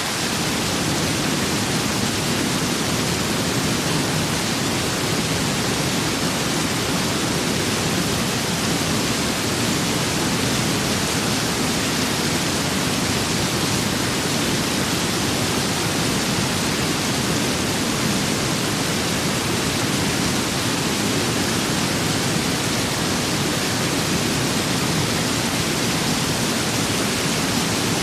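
Steady rain with wind: a dense, even hiss with a fuller low rush underneath that comes in at the start and then holds without change.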